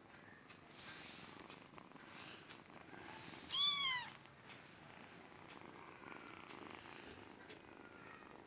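A cat meows once: a short, high mew that rises and then falls, about three and a half seconds in, over faint rustling.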